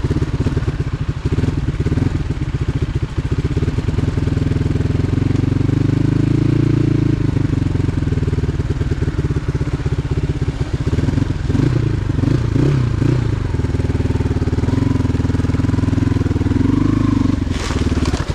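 Motorcycle engine running steadily with rapid firing, its pitch rising and falling a little. It cuts off abruptly near the end.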